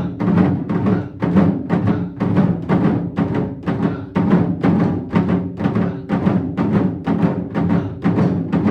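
Taiko drums struck together by a group in a steady, even beat, about three strokes a second.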